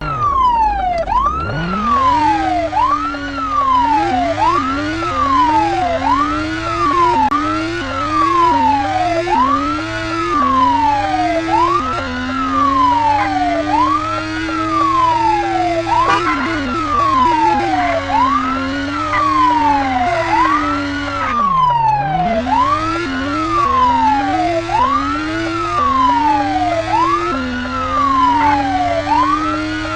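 Police car siren wailing, its pitch falling and then rising again about once a second, with a lower second tone beneath it. The siren winds up from low pitch about a second in. The lower tone sags and climbs back near the twenty-two second mark.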